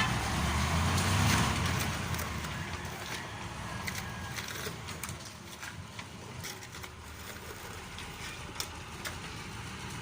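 Mitsubishi Fuso 8DC9 V8 diesel engine of a mixer truck running, louder for the first couple of seconds and then settling to a lower, steady rumble, with a few small clicks.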